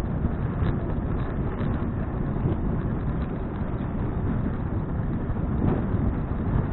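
Wind buffeting an action camera's microphone on a moving bicycle: a steady low rumbling rush with faint crackles.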